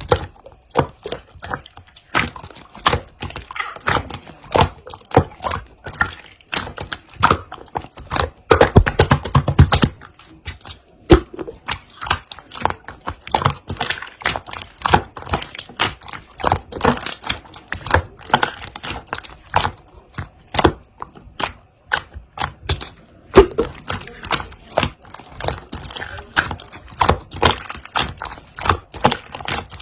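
Hands squishing, folding and pressing pearl slime, making quick wet clicks and pops several times a second, with a denser, louder run of squelching about nine seconds in.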